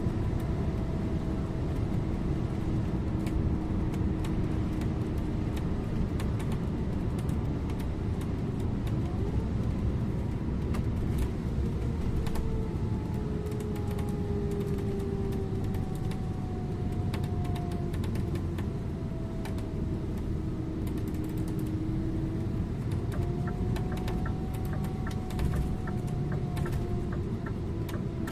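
Scania InterLink bus driving on the road: a steady low rumble from the engine and tyres, with a drivetrain whine that slowly rises and falls as the speed changes. Light clicks and rattles come and go throughout.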